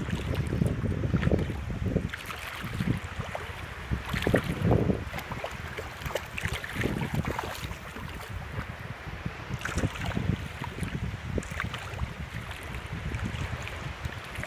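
Gusty wind buffeting the microphone, a low uneven rumble that swells and drops every second or two.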